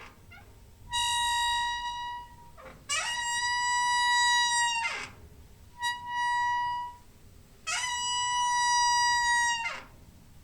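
Door hinge squeaking in four long, high, pitched creaks, each a second or two long. Two of them slide up in pitch as they start and slide back down as they stop.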